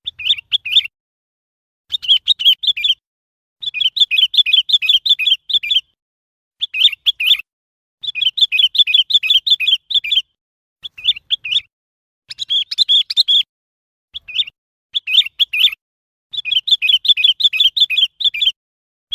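Sooty-headed bulbul calling: short runs of quick, chirpy notes, repeated again and again with brief silent gaps between them.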